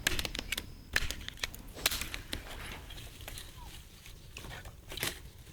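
Firewood and charcoal crackling and clicking: a handful of sharp cracks with the loudest near the start, about a second in, just before two seconds and near the end, over a low steady rumble.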